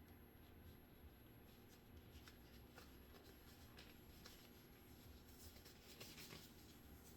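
Faint rustling and crinkling of a sterile glove package and gloves being handled, a little louder about six seconds in.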